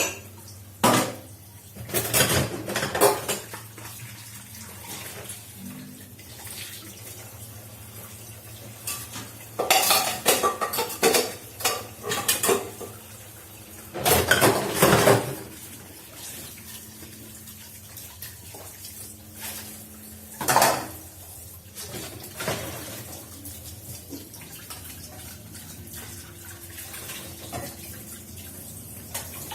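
Dishes and cutlery clattering and clinking as they are washed in a sink, in several short spells of clatter, with water running faintly and a steady low hum underneath.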